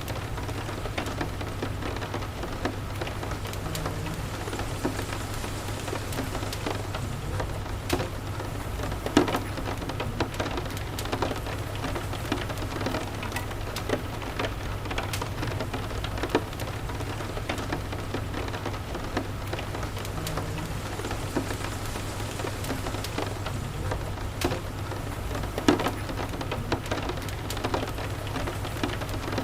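Steady rain, with scattered sharp crackles and pops from a wood fire in a fireplace and a steady low hum underneath.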